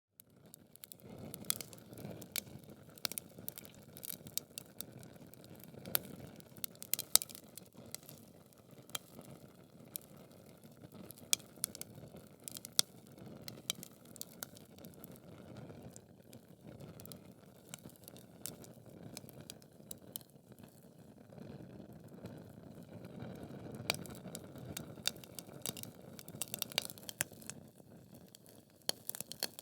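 Wood logs burning in a fireplace: a steady low rush of flame with frequent sharp crackles and pops, the loudest pop about seven seconds in.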